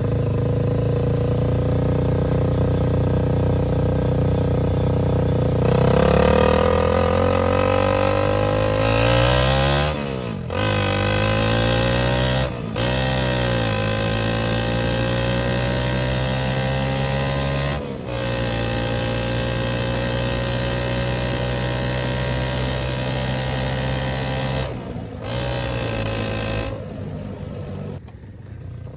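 Go-kart engine running under throttle, heard close up: its pitch climbs about six seconds in, then drops and comes back several times as the throttle is briefly let off, around ten, thirteen, eighteen and twenty-five seconds in.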